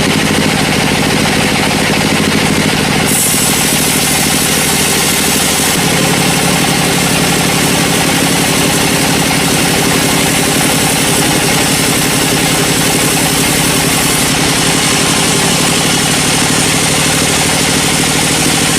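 Engine-driven sawmill machinery running steadily and loud, its tone shifting a few seconds in.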